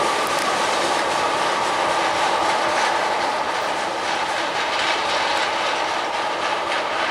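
Ethanol unit train's loaded tank cars rolling past at about 15 mph, a steady rumble and clatter of steel wheels on the rails.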